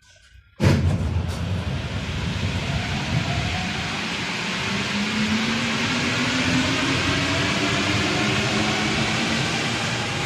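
Rubber-tyred Paris Métro line 1 train accelerating: a loud running rumble that begins abruptly about half a second in, with a traction-motor whine rising steadily in pitch.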